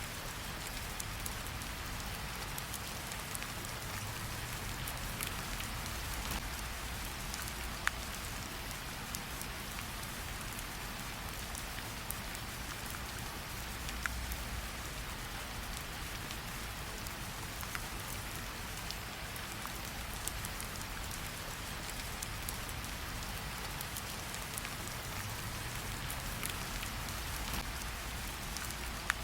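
Steady rain falling, mixed with a campfire; a few sharp pops stand out, the clearest about eight and fourteen seconds in.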